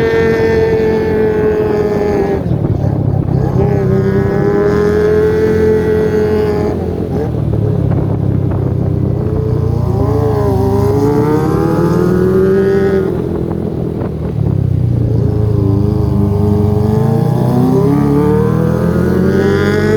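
Kawasaki ZX25R's 250 cc inline-four revving high through an aftermarket undertail exhaust. The pitch holds high, drops and climbs again several times.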